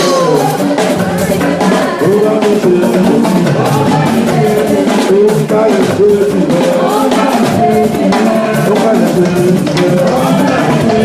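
Loud live church music: voices singing over drums and percussion with a steady beat.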